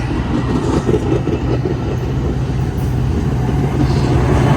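Commuter train with an EMD F59PH diesel locomotive: the steady low drone of the diesel engine and the rumble of passenger cars rolling by, growing louder.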